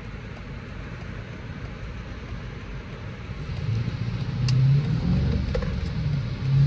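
BMW X6M's 4.4-litre twin-turbo V8 running on the move, with road noise; about halfway through it gets louder and a low, steady engine note comes up.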